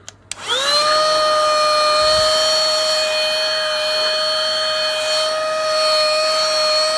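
Electric vacuum cleaner switched on with a click, its motor spinning up in a rising whine and then running at a steady high-pitched whine. It is a low-cost model that the tester judges less powerful than the one tried before.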